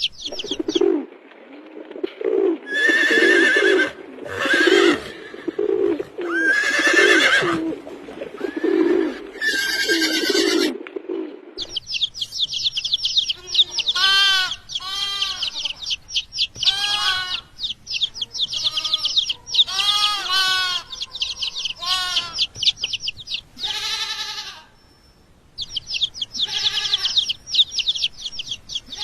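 Farmyard animals and birds calling. First comes a run of low, evenly repeated calls with higher calls over them. After a sudden change about 12 seconds in, there is dense high chirping with repeated louder calls.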